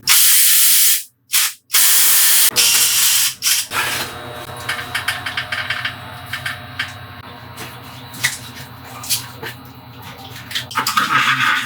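Loud spraying hiss in bursts for the first few seconds, stopping twice briefly, followed by quieter irregular clicking and scraping.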